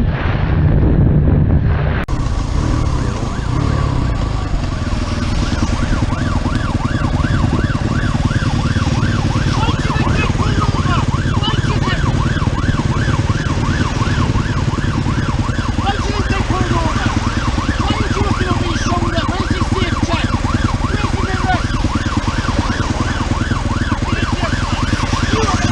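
Emergency vehicle siren in a fast yelp, its pitch sweeping up and down about three times a second, over a steady low rumble.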